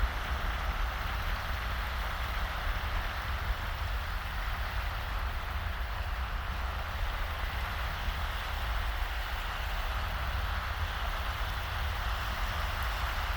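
Small, shallow waves washing continuously onto a sandy beach in a breeze: a steady hiss of water over a constant low rumble, with no separate breaking crashes.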